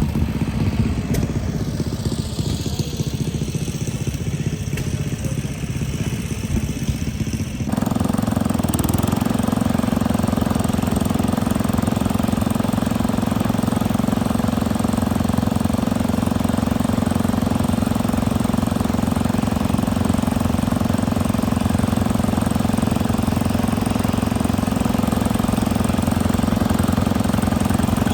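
Small gasoline engines running steadily, with a faint high whine falling in pitch over the first few seconds. About eight seconds in, the sound switches abruptly to a louder, steady engine drone.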